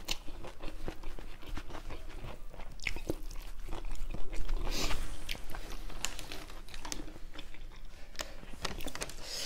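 A person chewing a mouthful of rice and vegetable curry, with a run of short, wet mouth clicks; louder about four to five seconds in.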